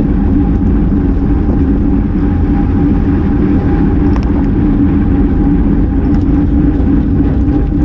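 Steady wind rush and road noise on a GoPro's microphone while riding a road bike, with a constant low hum running through it.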